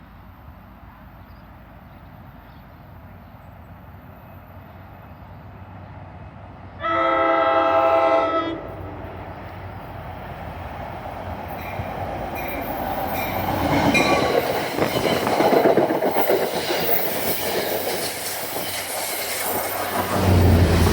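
An approaching passenger train sounds its horn in one chord blast of about a second and a half. Then the rumble and clickety-clack of its wheels on the rails build as it pulls in, and a low locomotive drone comes in near the end.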